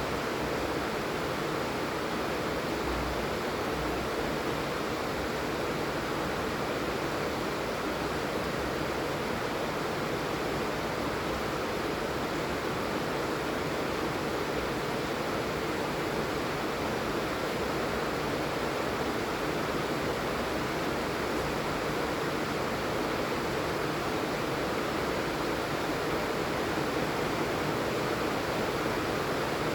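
Steady heavy rain falling, an even hiss with no changes.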